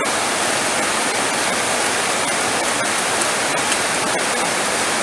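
Heavy rain falling steadily, a dense, even hiss of downpour with no thunder.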